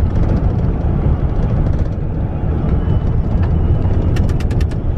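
Steady low rumble of engine and road noise inside a moving car on the freeway. A quick run of about seven sharp clicks comes a little after four seconds in.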